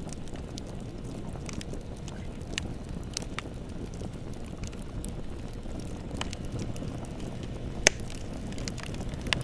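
Bonfire burning: a steady low rumble of flames with scattered sharp crackles and pops of burning wood, and one louder pop about eight seconds in.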